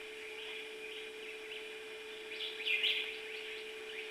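Birds chirping and singing, with a louder run of song about two and a half seconds in, over a steady low hum.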